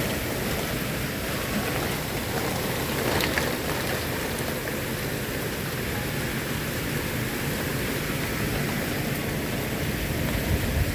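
Steady downpour of thunderstorm rain, with one brief click about three seconds in.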